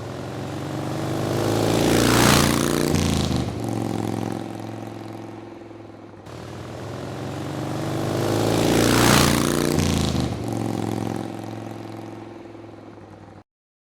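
A motorcycle goes past at speed twice. Each time the engine grows louder as it approaches, drops in pitch as it passes about 2 and 9 seconds in, then fades away.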